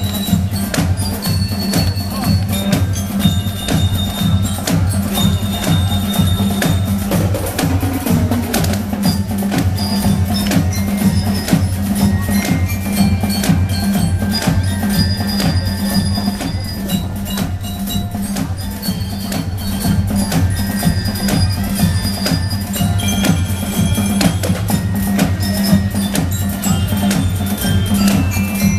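Marching showband playing: rapid snare-drum strokes under a melody of short bright bell notes from glockenspiel-type bell lyres, over a steady low tone.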